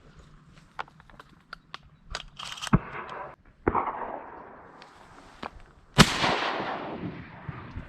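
Three shotgun shots during a duck hunt, the first two about a second apart and the third, the loudest, about two seconds later, each followed by a long rolling echo.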